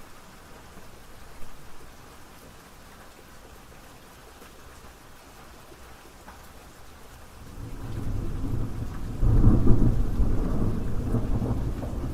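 Steady rain falling, with a low rumble of thunder building about two-thirds of the way in, loudest a little after, and rolling on to the end.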